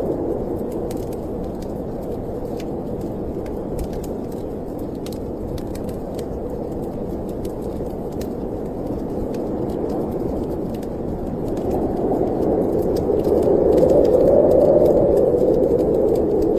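Snowstorm wind blowing steadily, swelling into a louder gust about twelve seconds in, over the small crackles and pops of a wood fire in a fireplace.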